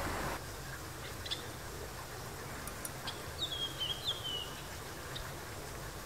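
A small songbird gives a short call about halfway through: a few thin, falling, slurred high notes over about a second, with a few faint single ticks before and after.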